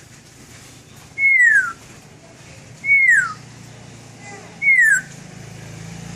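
A pet bird whistling one clear note that slides downward, three times, roughly every two seconds.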